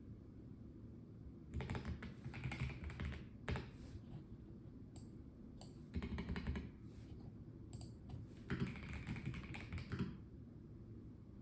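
Typing on a Melgeek Mojo84 plastic-case mechanical keyboard: three short runs of keystrokes with pauses between them.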